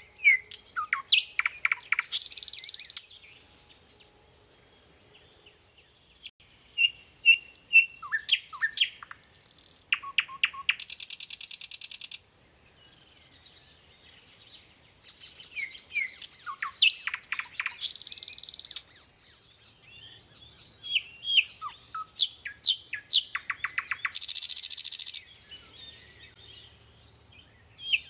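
A songbird singing in phrases a few seconds long, each a mix of chirps, sliding whistled notes, buzzy notes and fast trills, with short pauses between phrases.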